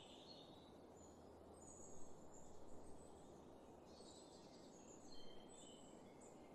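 Near silence: faint background hiss with scattered, faint high-pitched bird chirps.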